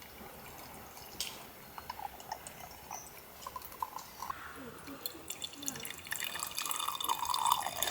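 Liquid dripping and trickling: scattered drops at first, growing busier and louder over the last few seconds.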